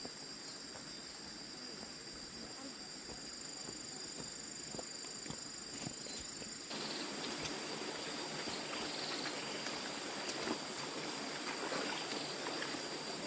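Insects trilling steadily at two high pitches over a hiss of outdoor background noise, which turns abruptly louder about halfway through.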